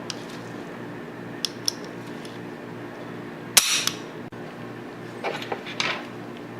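Steel parts of a Tokarev TT-33 pistol clicking and clacking as they are handled and fitted together: a few light clicks, one sharper clack about three and a half seconds in, then a quick run of clicks near the end.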